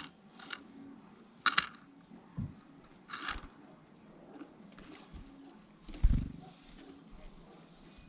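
Small birds, black-capped chickadees, flying in to a wooden platform seed feeder: wing flutters and scratchy rustles in the seed. Several short, high chirps come between the rustles. A heavier thump about six seconds in is the loudest sound.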